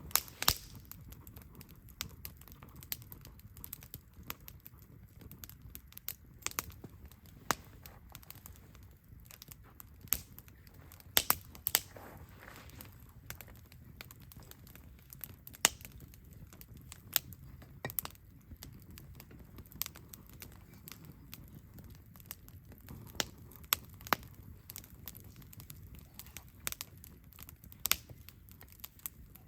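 Wood campfire crackling: irregular sharp pops and snaps, a few of them louder, over a low steady rumble.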